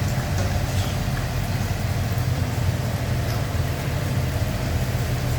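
Fire truck engine running at a low, steady idle as the truck rolls slowly past in a parade.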